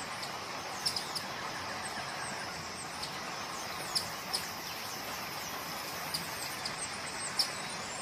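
Short, high bird chips, about half a dozen scattered through, over a steady background hiss.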